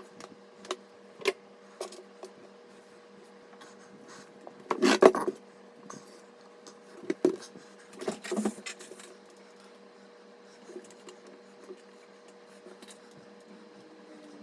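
Computer parts being handled during a PC build: scattered clicks and rubbing, with louder clattering about five seconds in and again around seven to eight seconds, over a steady hum.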